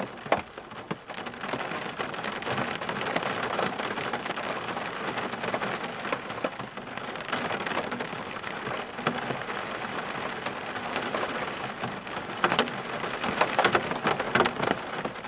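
Steady rainfall, with individual drops landing as sharp clicks over the even hiss of the rain. The drop hits come thicker and louder near the end.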